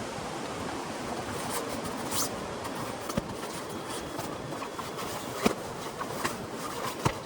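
Heavy rain falling steadily, a constant hiss, with a few sharp knocks or taps spread through it.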